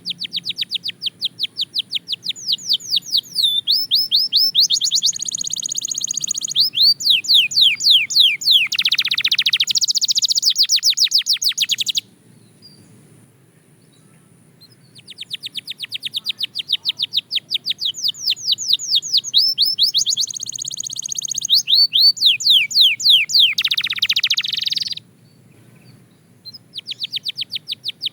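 Belgian canary singing long phrases of fast, rapidly repeated downward-sweeping notes: two songs of about ten seconds each with a short pause between them, and a third beginning near the end.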